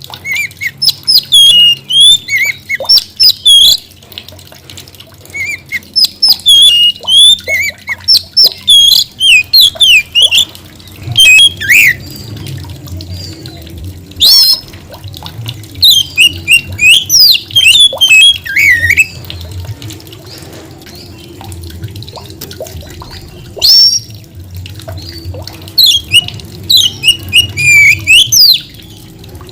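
Oriental magpie-robin (kacer) singing in full voice: loud, varied phrases of rapid whistles and harsh chattering, coming in bursts with short breaks and one longer pause past the middle.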